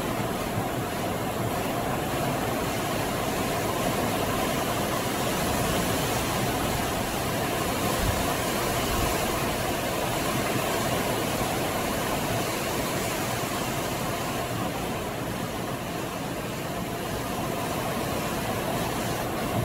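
Steady noise of a car driving: engine and tyre noise that runs evenly, with no sudden sounds.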